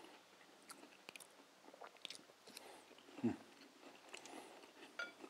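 Faint crunchy chewing of panko-breaded fried shrimp: small scattered crackles as it is bitten and chewed. There is a brief low sound, falling in pitch, about three seconds in.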